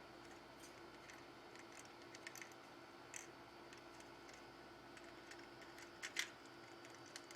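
Faint, scattered light clicks and taps of a green-cheeked conure working at a plastic foraging toy, with a sharper pair of clicks about six seconds in, over a low steady room hum.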